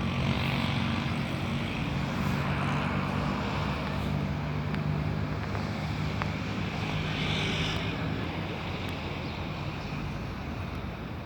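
An engine running steadily with a low hum, growing gradually quieter over the last few seconds.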